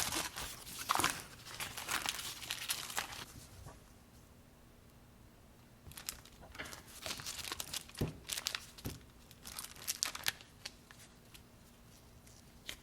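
Packaging crinkling and rustling as a block of butter is handled and unwrapped: a dense burst of crinkling for about three seconds, a pause, then scattered crinkles and light taps.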